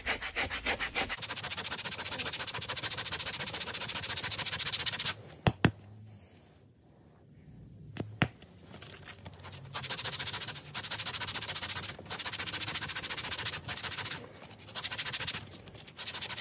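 60-grit sandpaper scrubbing the old vinyl of a snowblower seat in quick, even strokes, in spells of a few seconds with short pauses. In a quieter break in the middle come a few sharp clicks.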